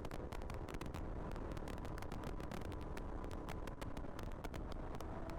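A Royal Enfield Continental GT 650 being ridden at a steady speed: a constant low engine drone overlaid by wind buffeting the helmet microphone, heard as rapid, irregular crackles.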